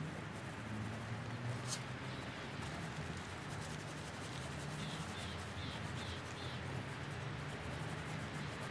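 Garden ambience: a steady low hum and hiss, with a bird giving a quick run of about five short high chirps about halfway through.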